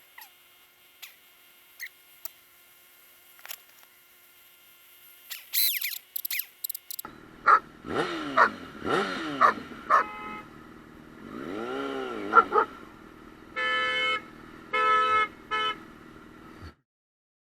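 After several seconds of faint clicks, a motorcycle engine revs up and down several times, then a vehicle horn honks three times.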